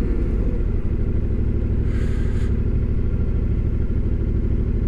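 Single-cylinder or twin adventure motorcycle engine running steadily at low revs, a fast even pulsing rumble with no revving. A short hiss comes in about two seconds in.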